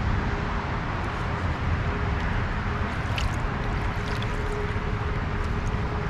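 Stream water flowing and gurgling steadily close by, with a few faint ticks.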